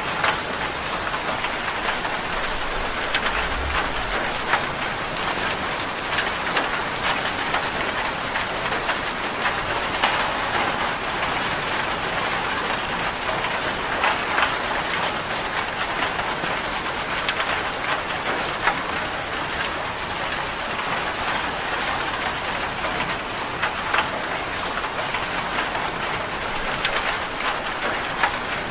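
Steady rain, an even hiss with many short, sharp drop ticks scattered through it.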